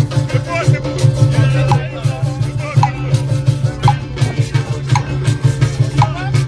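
Live band music with maracas shaking over a steady low drone, and an accented beat about once a second.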